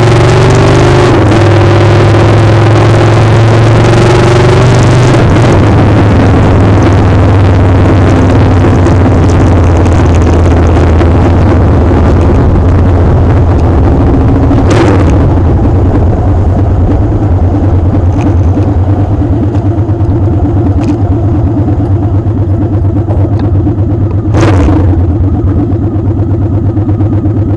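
Motorcycle engine running under heavy wind rush on the microphone. The wind noise dies down about halfway through, leaving a steady pulsing engine note, with two sharp knocks in the second half.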